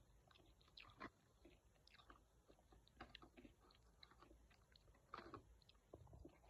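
A person chewing and biting into chicken wings: quiet, irregular crunches and mouth clicks, with a louder bite about five seconds in.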